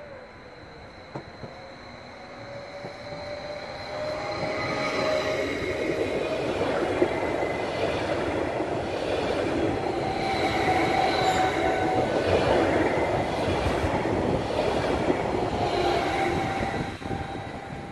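Red regional passenger train running past along the platform: the wheel and rail rumble builds as it approaches and stays loud while the coaches go by, then drops away near the end as the tail passes. Steady high tones ride over the rumble.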